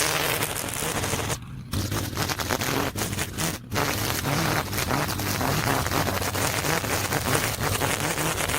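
Petrol-engined lawn equipment running while cutting through thick overgrowth, with a dense, rapid crackle of debris strikes over the steady engine drone. The sound drops out briefly about one and a half seconds in and again about three and a half seconds in.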